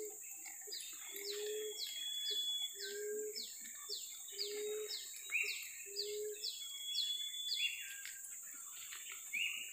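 Birds calling: a quick, steady series of short descending chirps, with a low note repeated about every second and a half through the first six seconds, over a constant high hiss.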